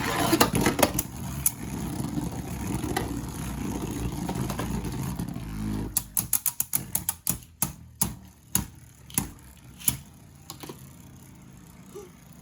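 Anime sound effect of a spinning Beyblade top whirring in the stadium, with sharp clicks. About halfway through it stops suddenly, and a run of separate sharp clicks follows that thins out toward the end.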